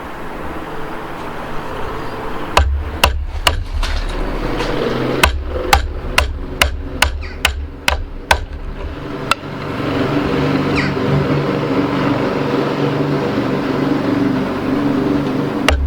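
A wood chisel being struck with hammer blows to chop out the waste of a mortise in a timber frame beam. About fifteen sharp strikes, two or three a second, come from about two and a half seconds in to about nine and a half seconds. A steady hum runs underneath and grows louder in the last six seconds.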